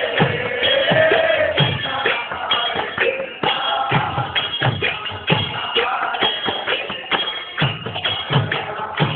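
Kirtan music: mridanga drum strokes and karatal hand cymbals ringing in a steady rhythm, with a sung line trailing off about a second and a half in.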